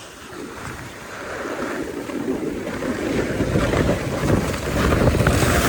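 Wind rushing over the microphone and a snowboard scraping across the snow, growing steadily louder as the rider picks up speed.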